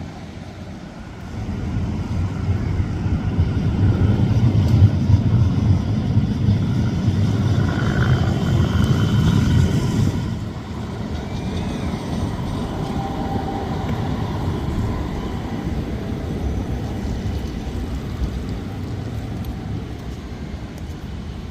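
A heavy vehicle passing close by: a low rumble builds about two seconds in, stays loud, and falls away about ten seconds in, leaving a steadier, quieter street noise.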